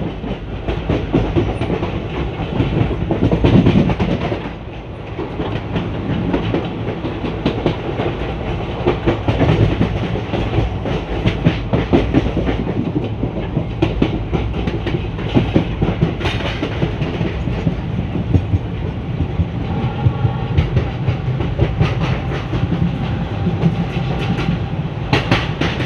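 ICF passenger coach running on the track, its wheels clattering over the rail joints in an uneven stream of clicks and knocks above a steady rumble.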